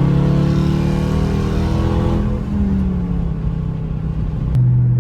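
Dodge Charger with an aftermarket Hellcat exhaust under hard acceleration. The engine note climbs steadily for about two seconds, then drops as the throttle comes off or the car shifts, and settles into a lower steady drone that steps up in loudness near the end.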